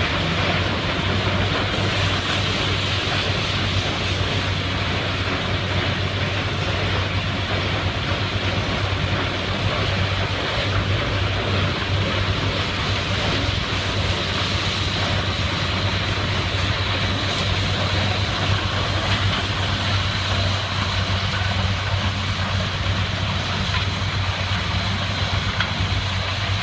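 Case 20-40 tractor engine running at a steady speed, with an even low pulsing beat.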